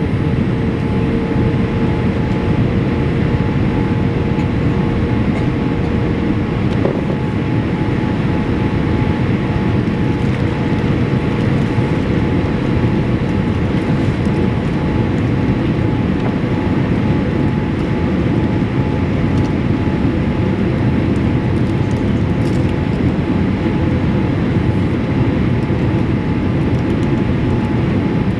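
Steady roar of a Boeing 787-8 cabin in flight, a constant rumble of engine and airflow noise with a faint steady whine running through it.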